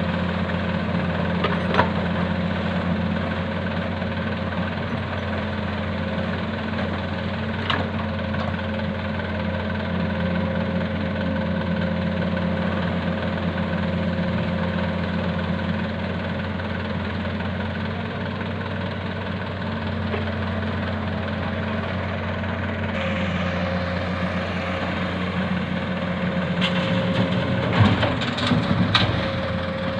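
Komatsu PC200-6 excavator's diesel engine running steadily under work, its tone shifting a little partway through, with a few sharp clanks and a short burst of rattling knocks near the end.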